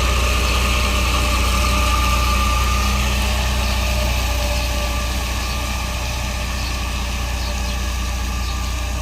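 Isuzu FTR 240 truck's diesel engine idling steadily, a deep even hum. A faint higher whine fades out about three seconds in.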